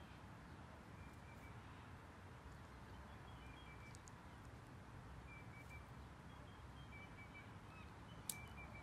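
Near silence: a faint outdoor background with birds chirping in short high notes every second or two, and one sharp click near the end.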